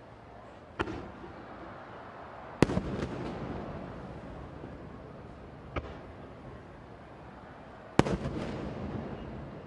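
Aerial fireworks shells bursting: four sharp bangs, the loudest about two and a half and eight seconds in, each of those followed by a few smaller pops and a rolling echo that dies away.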